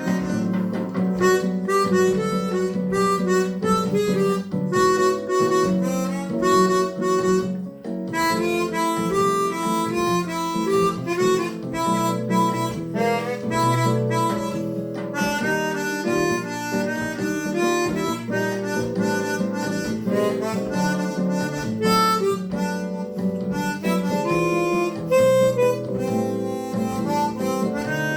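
Chromatic harmonica playing a bossa nova melody over guitar accompaniment.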